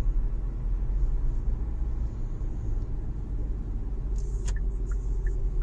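Steady low road rumble of a car heard from inside the cabin while driving. About four seconds in there is a brief sharp rattle, followed by a few faint ticks.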